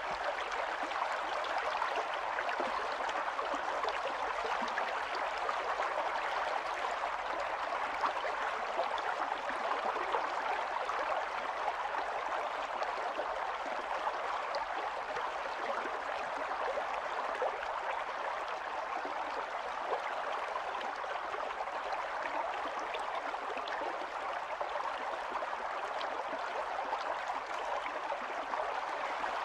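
Stream water running steadily over stones, a continuous babble of small splashes and trickles.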